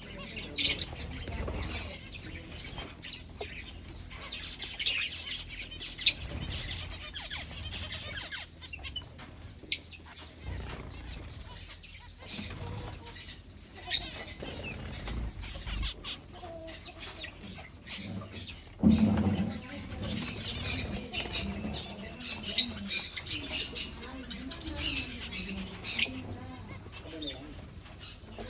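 Aviary finches chirping: many short, high calls throughout, with the flutter of wings as birds fly about. There is a louder low flutter or thump about two-thirds of the way through.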